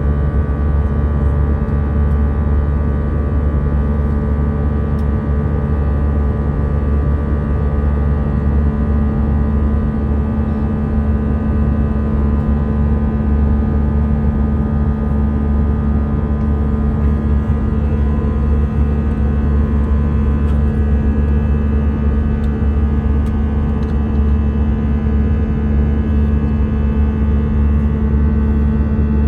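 Steady drone of an Airbus A319 airliner in flight, heard from inside the cabin: a constant low hum with several steady engine tones above it, holding level without rising or falling.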